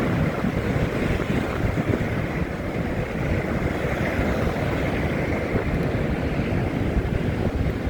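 Steady rumble of wind buffeting a phone microphone, fluttering unevenly in the low end.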